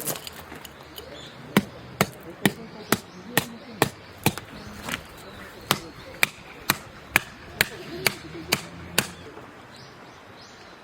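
About fifteen sharp hand-tool strikes at roughly two a second, with a brief pause midway, then stopping.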